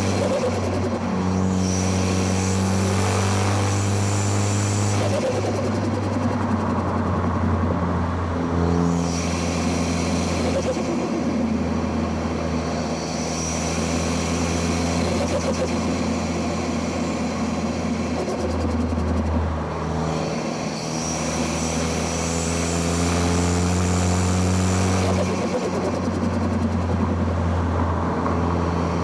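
2013 Ford Focus ST's turbocharged 2.0-litre four-cylinder engine pulling hard on a winding road, heard from microphones at the intake and exhaust. Its note holds steady between several sudden pitch changes as it shifts gears.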